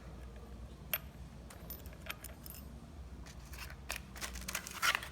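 Light metallic clicks and clinks of the washer being seated on a cordless angle grinder's spindle: a few scattered taps, then a quicker cluster near the end.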